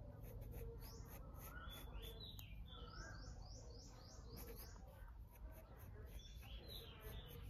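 Faint birds chirping, with a quick run of short, arching chirps about three seconds in and other calls a second or so earlier and near the end. Soft pencil strokes scratching on textured paper lie underneath.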